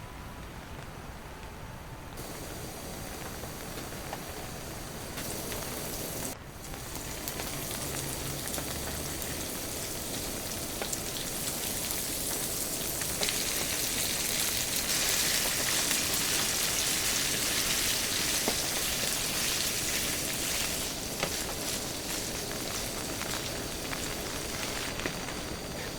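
Heavy rain falling steadily, with scattered patter of individual drops. It grows heavier past the middle and eases a little near the end.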